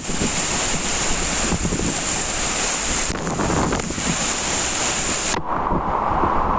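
Heavy rain falling in a storm, a loud steady rush of noise. A little over five seconds in, the hiss abruptly drops away and the rush turns duller.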